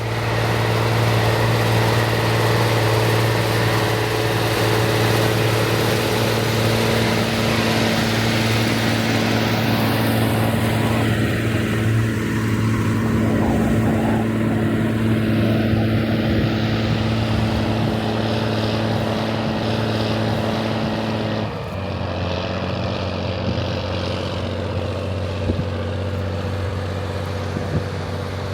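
Rába 250's diesel engine running steadily with a deep, even drone. About three quarters of the way through, the engine note drops slightly in pitch and level and then holds steady again.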